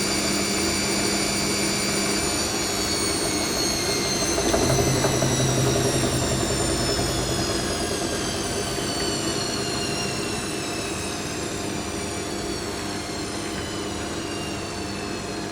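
Hoover NeXtra HNL3146 washing machine winding down from a spin: the motor's whine falls steadily in pitch as the drum slows. A low hum swells briefly a few seconds in.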